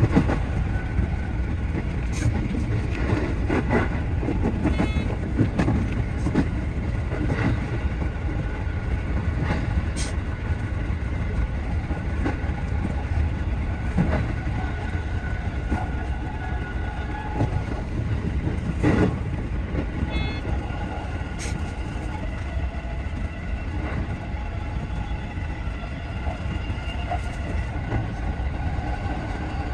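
JR West 207 series electric commuter train running at speed, heard from the driver's cab: a steady low rumble with irregular clicks of the wheels over rail joints and points, and two brief higher tones about five and twenty seconds in.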